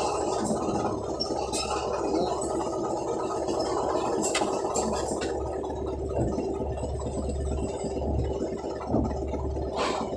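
Bulldozer's diesel engine running steadily under load, with a few sharp clanks scattered through, one louder near the end.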